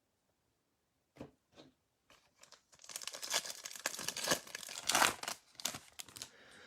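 Foil wrapper of a trading card pack being torn open and crinkled, starting about three seconds in after a couple of soft taps.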